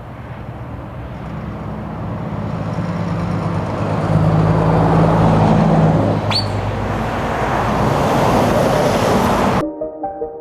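A heavy truck's diesel engine running and growing louder as it nears, loudest about halfway through, with a brief sharp high squeal a little past the middle. The sound cuts off suddenly near the end.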